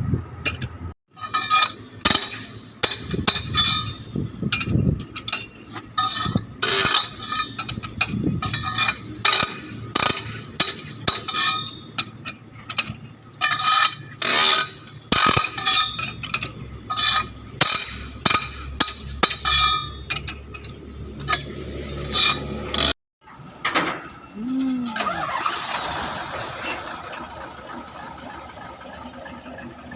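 Irregular metallic clinks and knocks of hand tools and wheel parts during work on a truck's front wheel, over a low steady hum. The knocking stops abruptly about three quarters of the way through, giving way to a softer hiss.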